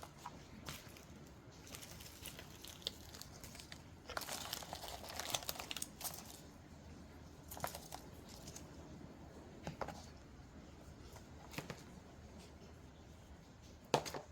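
Paper being handled and crinkled: short separate rustles, a longer, denser stretch of crumpling or tearing about four to six seconds in, and a sharp one near the end.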